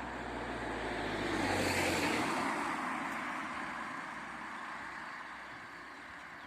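A vehicle passing by: its noise swells to a peak about two seconds in, with a low engine hum early on, then fades away.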